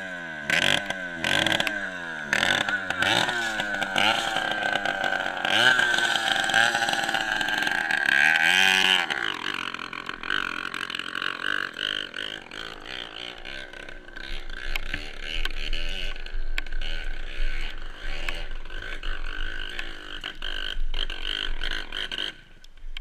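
Dirt bike engine being revved in quick repeated throttle blips, its pitch rising and falling under a second apart, for about the first nine seconds. It then runs more steadily until it cuts off abruptly near the end.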